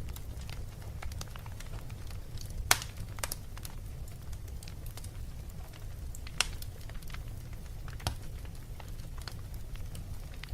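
Wood fire crackling in a fireplace: irregular sharp pops and snaps over a low steady rumble, with the loudest pops about three, six and eight seconds in.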